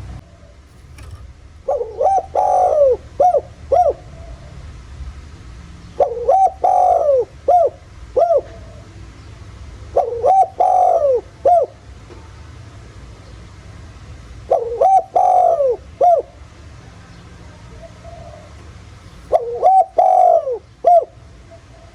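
Spotted dove crowing in a deep 'giọng thổ' voice. Five calls come about four seconds apart, each a couple of seconds of coos that rise and fall and end in two short notes. This is the kind of call played to provoke wild and decoy doves into calling back.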